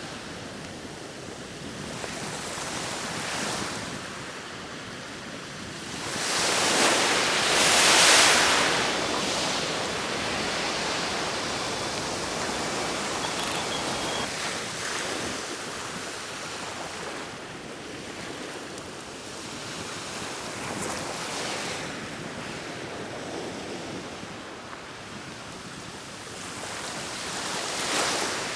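Sea waves washing onto the shore, with the surf swelling loudest for a few seconds about a quarter of the way in and again near the end.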